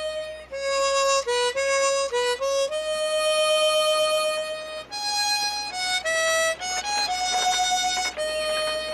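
Harmonica playing a slow solo melody of single notes, some long and held, some short and quick.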